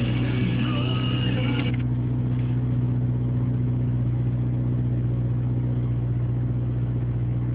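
1992 VW Passat's engine idling steadily shortly after a cold start, running on freshly changed spark plugs. Music plays over it and cuts off abruptly about two seconds in.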